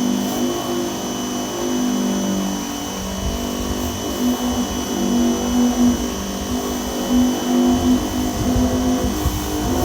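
Dewalt 2100 PSI electric pressure washer running, its motor and pump giving a steady high whine over a hum that wavers in pitch, with an uneven low rumble from about three seconds in.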